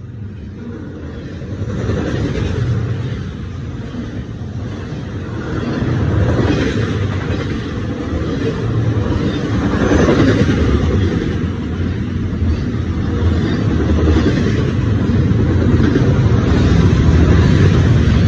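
Double-stack intermodal freight train rolling past close by: a steady rumble of steel wheels on rail that swells and eases in waves every few seconds.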